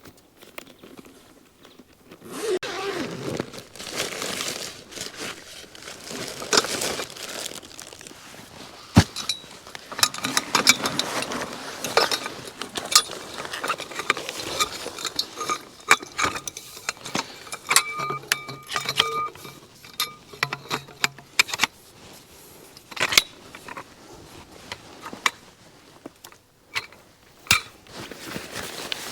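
Irregular clinks, knocks and rattles of hard objects being handled and set down, with rustling in between; a short steady squeak-like tone sounds for a few seconds past the middle.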